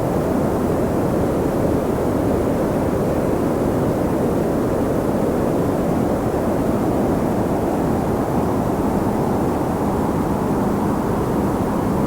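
Steady wind noise, an even low rushing with no gusts, breaks or separate sounds.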